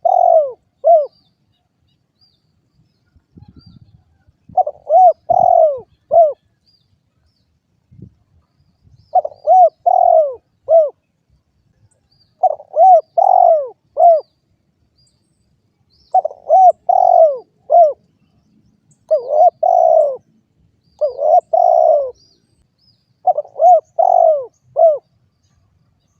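Spotted dove (derkuku) cooing: phrases of three or four short, arched coos, repeated every few seconds.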